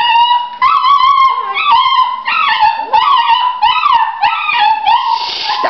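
Puppies whining and whimpering without a break: a string of short, high-pitched cries that rise and fall and overlap one another.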